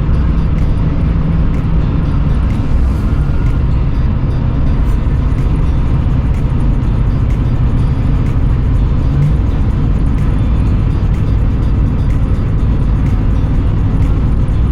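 Steady low rumble of a motor vehicle driving, with background music over it.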